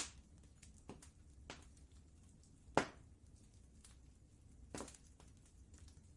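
Wood fire crackling in a fireplace: irregular pops and snaps, the loudest a little under three seconds in, over a faint low rumble.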